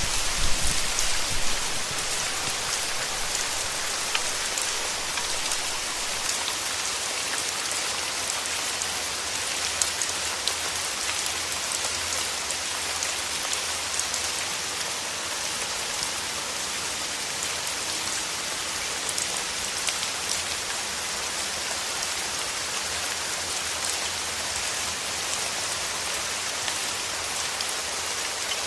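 Steady rain falling on a surface: a dense, even hiss with scattered ticks of single drops. A low rumble fades away in the first second or two.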